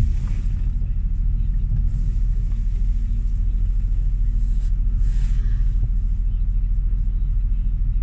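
Car driving on a winter road: a steady low rumble of engine and tyres, with a brief hiss about five seconds in.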